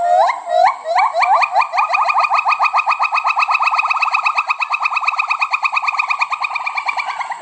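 A monkey calling: a long run of short, whistle-like notes that each slide upward in pitch, a few a second at first, speeding up to a fast trill of about ten a second that holds until near the end.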